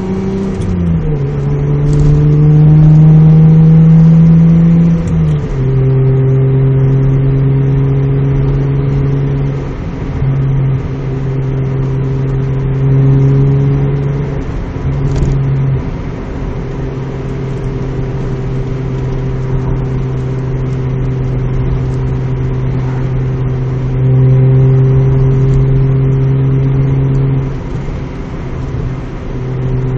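Mazda MX-3 GS's 1.8-litre V6 with a 2 1/4 in exhaust, test pipe and Magnaflow Street Series muffler, heard from inside the cabin while driving. The engine pitch drops twice in the first six seconds, then settles into a steady exhaust drone that swells briefly near the end.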